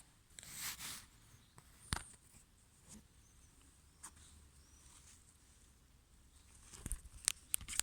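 Faint rustling and scattered small clicks and taps, with a short burst of rustle about half a second in and a quick run of clicks near the end.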